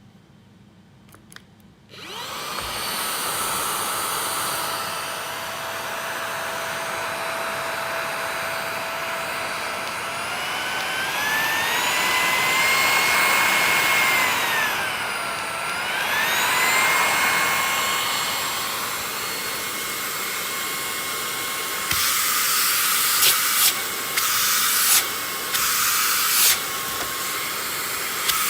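LEVOIT VortexIQ 40 cordless stick vacuum switching on about two seconds in and running with a steady whine. Partway through, its pitch rises, dips and climbs back. Near the end, several loud noisy bursts break over the motor sound.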